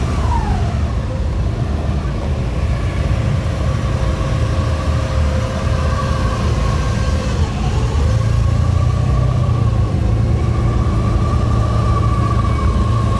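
Car engine running: a rev that falls away in the first second, then a steady drone that grows louder after about eight seconds.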